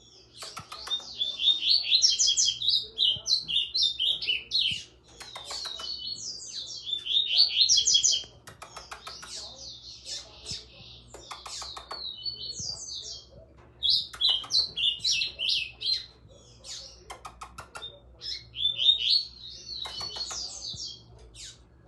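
A small songbird singing in bouts of rapid, high twittering phrases, one after another with short pauses between them.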